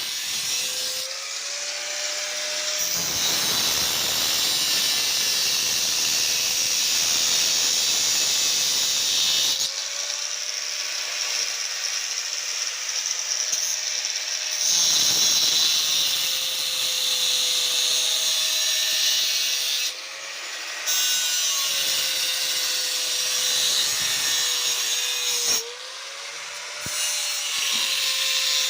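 Handheld power tool running under load in long runs, its motor pitch sagging and recovering as it works. It stops briefly about twenty seconds in and again about twenty-five seconds in, then starts up again.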